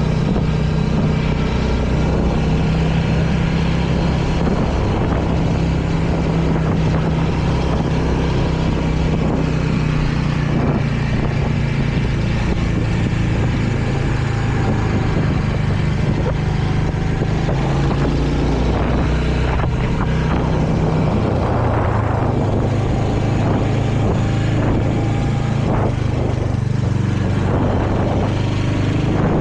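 Royal Enfield Hunter 350's single-cylinder engine running steadily while riding. Its note shifts lower about two-thirds of the way through.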